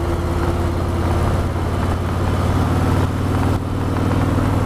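Harley-Davidson Road Glide Ultra's Milwaukee-Eight V-twin engine running steadily, with a small change in pitch about three and a half seconds in.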